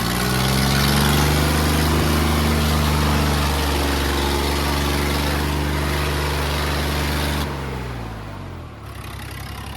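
Tractor diesel engine revved hard and held at high revs for about seven seconds under pulling load, then the revs drop back toward idle.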